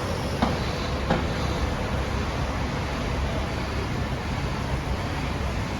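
Bus engines running: a steady low rumble with a faint steady hum.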